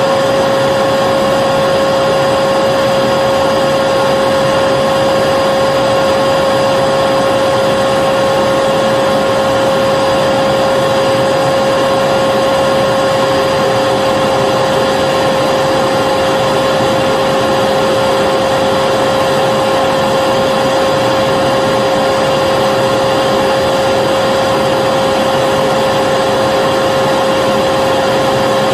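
Vacuum cleaner motor running continuously, a steady rushing of air with a constant motor whine that does not change.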